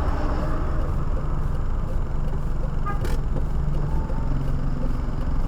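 Steady car interior noise while driving: a low engine hum and road noise heard inside the cabin. About three seconds in there is one short sharp click.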